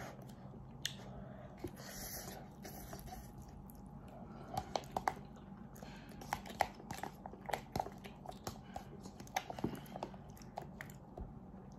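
A person chewing a mouthful of instant noodles, with many short clicks of chewing that come thicker from about four seconds in, over a faint steady low hum.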